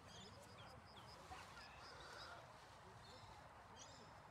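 Near silence, with faint runs of quick, high bird chirps in the first half and once more near the end.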